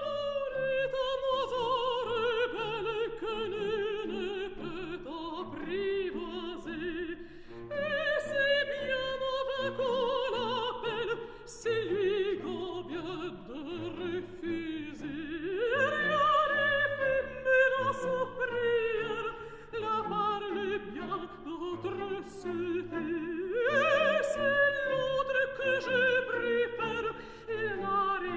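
Operatic singing with orchestra: a single trained voice with wide vibrato sings long phrases that slide downward and start again about every eight seconds.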